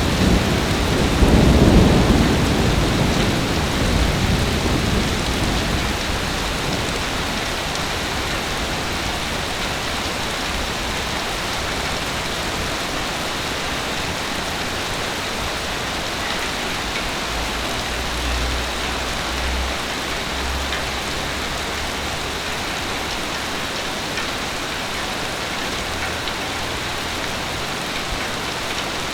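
Heavy rain falling steadily, with a rumble of thunder swelling about a second in and fading over the next few seconds, and a fainter low rumble near the middle.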